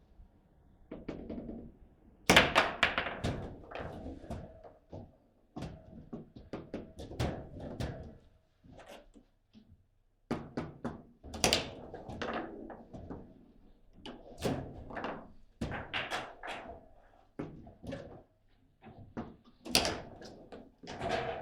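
Table football play: sharp knocks and thunks as the ball is struck by the figures and bangs around the table, in quick irregular clusters, with a brief lull about nine seconds in.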